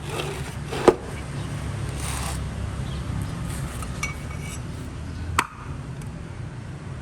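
Two sharp knocks, about four and a half seconds apart, over a steady low rumble, with faint rustling and handling noise between them.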